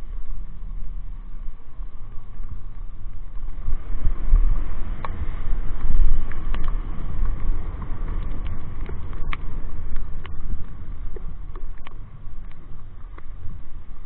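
Motorcycle riding noise on a helmet-mounted microphone: a heavy, fluctuating wind rumble, with scattered sharp ticks from about five seconds in.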